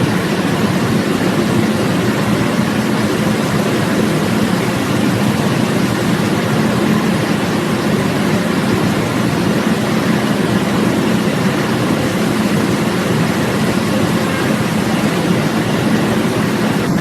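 Steady vehicle noise: an even rumble and hiss of engine and road that holds at one level without any sudden knocks or changes.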